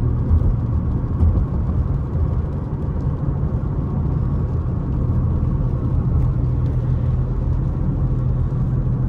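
Steady low rumble with a constant hum, as of a vehicle idling.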